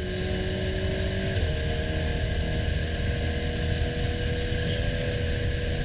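KTM X-Bow Comp R's turbocharged four-cylinder engine running hard at speed, heard from the open cockpit with a steady rush of wind, the car accelerating from about 107 to 119 mph.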